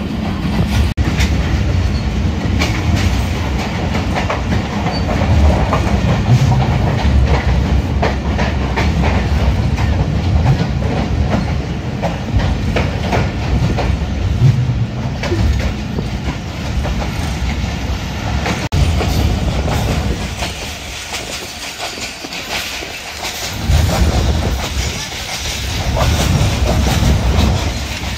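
Passenger train running, heard from inside a carriage: a steady low rumble with the clickety-clack of wheels over rail joints. The rumble eases for a few seconds about two-thirds of the way through, then picks up again.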